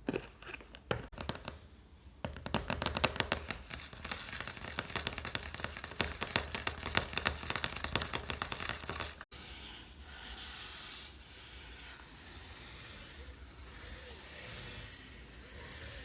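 ASMR-style close handling sounds: rapid crackling and scratching for about nine seconds, then, after an abrupt cut, soft hissing swishes.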